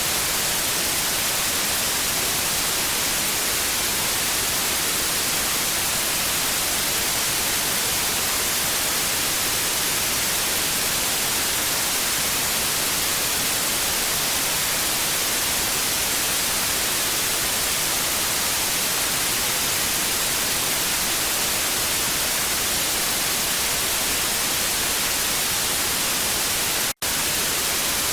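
Television static: a steady, even hiss of white noise, heaviest in the treble, broken by a split-second dropout near the end.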